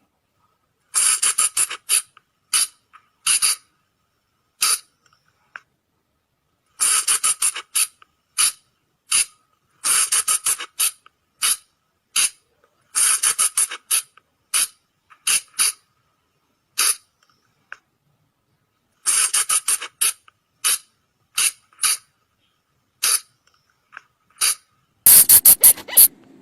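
Sunda colugo (flying lemur) calls: short, sharp squeaking cries repeated in quick clusters of several strokes, with brief pauses between clusters. A louder, harsher burst comes near the end.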